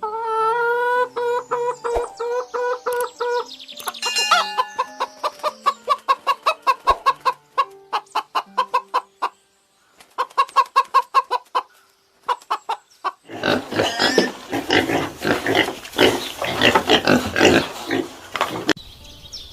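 Chickens calling: one long held call first, then a rapid run of short clucks, about four or five a second, broken by short pauses. A louder, denser stretch of calls follows about two thirds of the way in.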